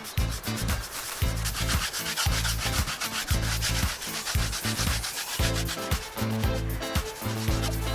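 Rhythmic rubbing or scraping strokes on wood, about two or three a second, with short gaps between them.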